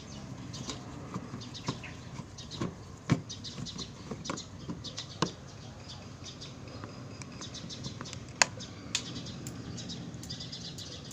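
Small birds chirping in quick, repeated high trills, with scattered sharp clicks and taps of a screw being worked out of an air-conditioner's casing. The loudest clicks come about three, five and eight and a half seconds in.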